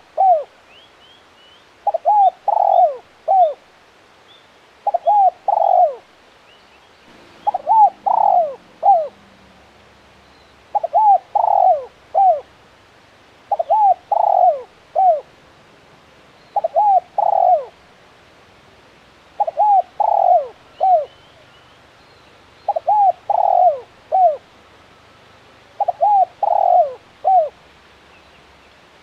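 Spotted dove (tekukur) cooing: a phrase of about four coos, the last one falling, repeated roughly every three seconds. Faint high chirps of small birds in the background early on.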